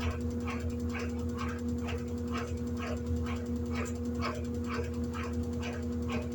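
Electrolux LED14 washing machine running, a steady motor hum under a regular swish about twice a second.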